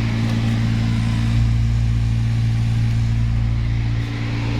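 BMW X1/E90 climate-control blower fan running, a steady hum with a rushing, airy noise. The noise comes from leaves and debris packed inside the blower fan, and it goes away once the fan is cleaned.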